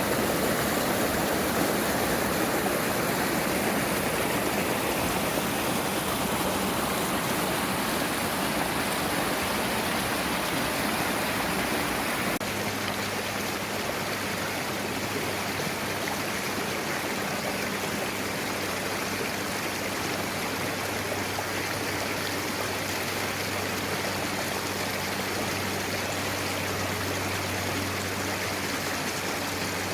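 Valley stream flowing steadily. About twelve seconds in, the water sound changes abruptly and a low steady hum joins it.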